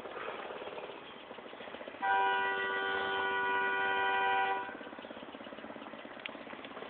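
A vehicle horn sounds once, a steady note held for about two and a half seconds starting about two seconds in. A small engine runs with a quick steady pulse underneath.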